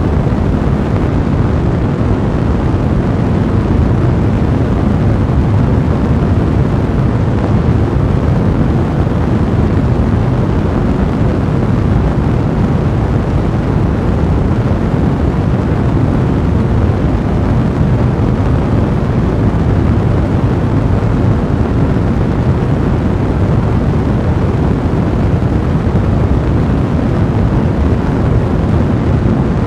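A blazing fire in a fireplace burning steadily, heard as a loud, even, low rushing noise with no distinct crackles standing out.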